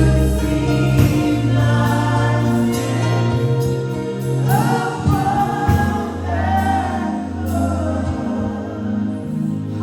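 Live gospel worship music: a choir or group of singers over a band with sustained bass and a steady beat.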